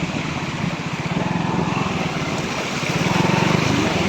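A small engine running steadily with a fast, even pulse, getting a little louder about three seconds in.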